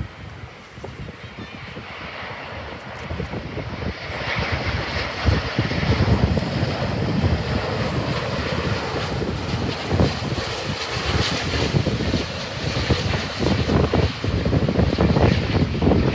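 Widebody jet airliner's engines running loud, growing louder over the first five seconds and holding. Wind buffets the microphone throughout.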